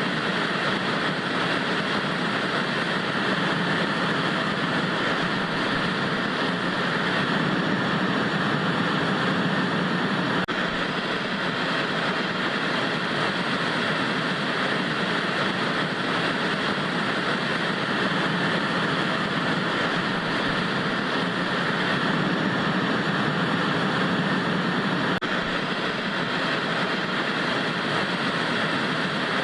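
Steady hiss of analog TV static, an even rushing noise with no change or break, fuller in the low-middle range than pure white noise.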